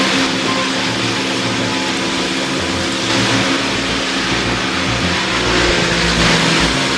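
A heavy forestry machine's engine running and revving under load, under a background music track with a shifting bass line.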